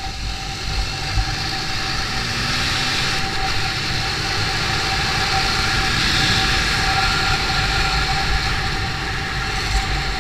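Steady vehicle running noise, likely from the motorcycle being ridden: engine and road and wind rush with a steady whine, building a little over the first couple of seconds and then holding.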